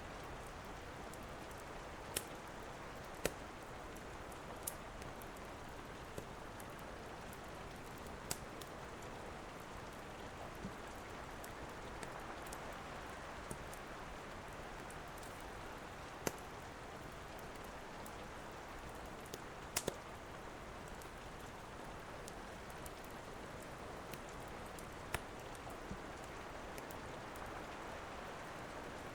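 Steady rain hiss with a dozen or so sharp, irregular pops of a crackling wood fire in a fireplace.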